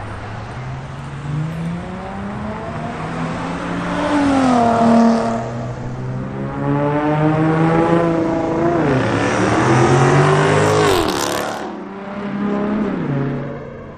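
Car engine revving and accelerating hard, its pitch climbing and dropping back with each gear change. The loudest pull comes about ten to eleven seconds in and cuts off suddenly.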